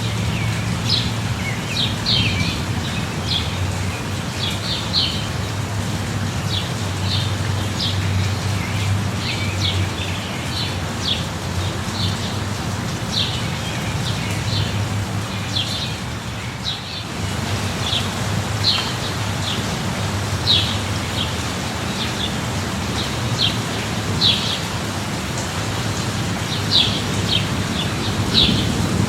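Steady rain with birds chirping over it, short high chirps coming once or twice a second, above a low steady rumble.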